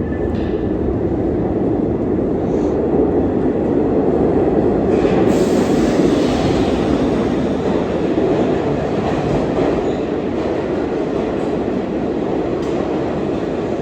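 New York City (A) subway train moving through the station, a loud steady rumble of wheels on rails that builds to its loudest about five to six seconds in and then eases off.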